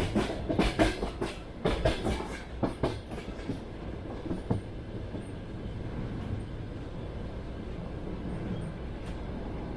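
Train wheels clacking over rail joints: a quick run of knocks in the first few seconds, then a steady low rumble of the rolling train.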